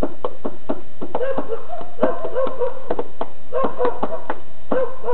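A person's voice imitating a whimpering, dying dog in short wavering whines, over a beat tapped out by hand. The whines start about a second in; the taps run at about three to four a second.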